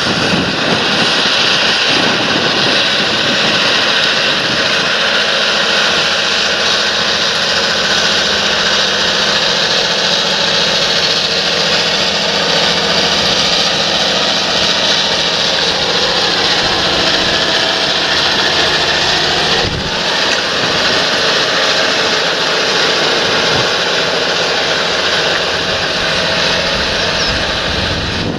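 Large John Deere tractor's diesel engine running steadily under load while working the field, with a brief dip in level about twenty seconds in.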